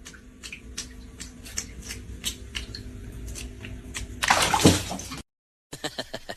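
Water sloshing, with scattered small clicks and a louder rush of splashing about four seconds in that cuts off abruptly.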